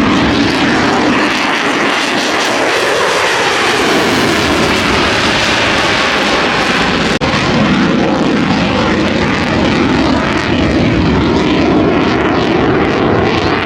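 Aircraft engine noise from planes flying past overhead, loud and continuous, swelling and shifting in pitch as they pass. It breaks off for an instant about seven seconds in.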